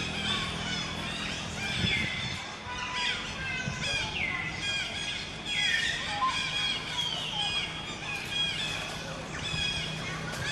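Birds calling: short chirps that slide downward in pitch, about one a second, some overlapping.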